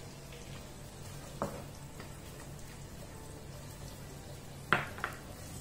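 Onion and garlic sizzling steadily in melted butter in a frying pan, a light rain-like hiss. A faint click about a second and a half in and two sharper knocks near the end, the first of them the loudest sound.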